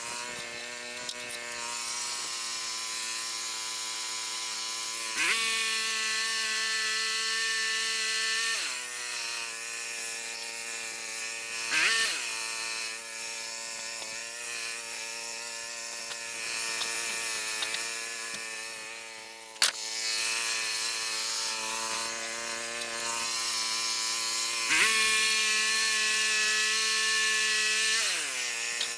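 A small motor whining steadily, shifting to a new pitch several times with short gliding changes, and sliding down near the end as it slows. A sharp click comes about two-thirds of the way through.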